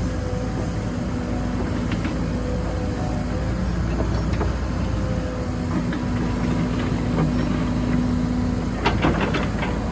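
Cat 313 FL excavator running, a steady engine rumble and hum. The hum strengthens for a few seconds in the middle, and a few sharp metallic knocks come near the end.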